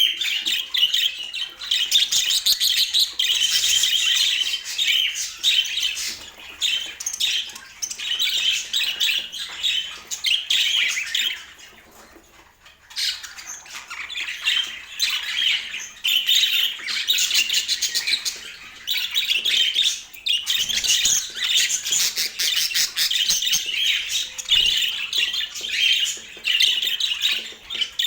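Budgerigars chattering and squawking in a dense, continuous stream of warbling calls, with a brief lull about twelve seconds in.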